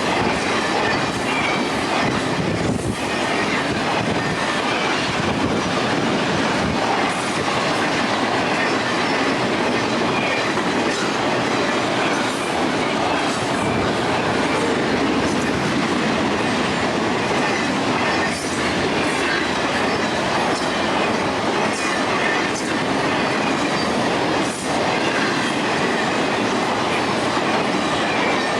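Train cars rolling steadily past on the rails, with the wheels clacking over the track.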